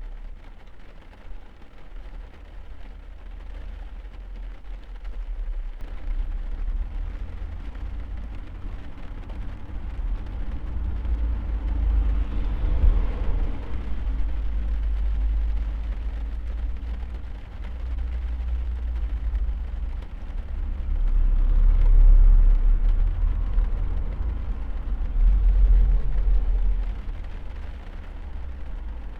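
Steady rain heard from inside a car, under a deep rumble that swells and fades several times, loudest about a dozen seconds in and again past twenty seconds.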